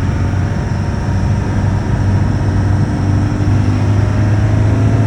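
Turbocharged engine of a manual 4x4 pulling in second gear, its note rising gently partway through, the engine not yet up to operating temperature.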